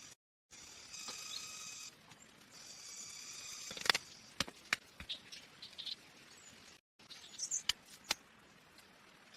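Steady high-pitched insect chorus that cuts out twice, with a run of sharp clicks and knocks about halfway through and again near the end.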